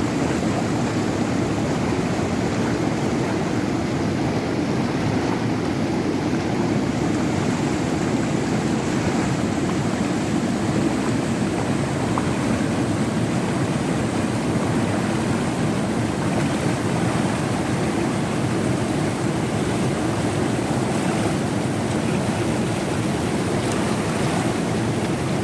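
Fast-flowing river rushing steadily: a dense, even rush of water, heaviest in the low range, with no breaks or changes.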